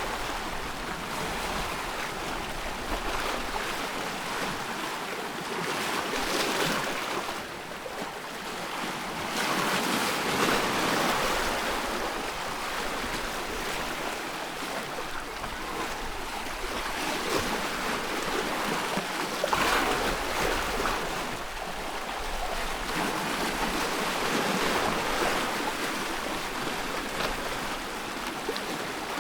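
Ocean waves breaking and washing ashore, a continuous rush of surf that swells and eases every few seconds.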